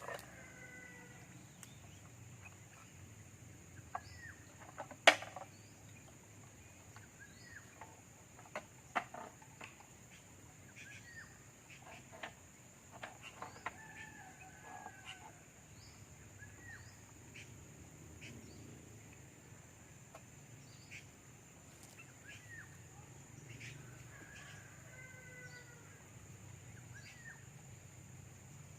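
White-breasted waterhen calling in short, scattered, curved notes, among small clicks and one sharp loud click about five seconds in, over a steady high hiss.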